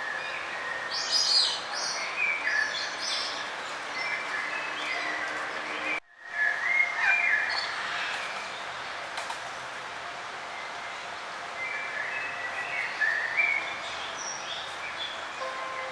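Several songbirds chirping and trilling in short, high phrases over a steady outdoor background hiss. About six seconds in, the sound cuts out for an instant and then resumes.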